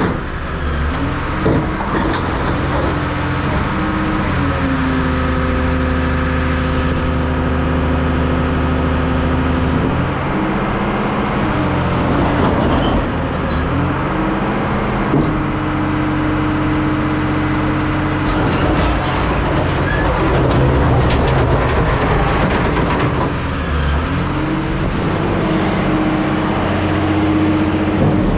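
Hydraulic scrap metal shear running through its cutting cycles: the engine and hydraulic pump hold a steady drone whose pitch dips and recovers about every ten seconds as the rams load up, with scattered metal clanks.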